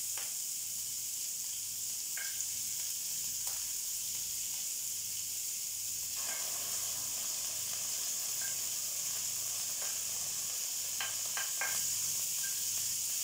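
Chopped onion sizzling in hot oil in a frying pan, a steady frying hiss. The sizzle grows fuller about six seconds in as more onion drops into the pan, and a few light taps of a spoon against a plate come through.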